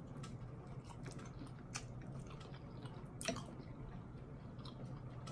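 A person chewing a mouthful of shrimp close to the microphone: faint wet mouth clicks and smacks, with two sharper clicks, one a little under two seconds in and one just past three seconds.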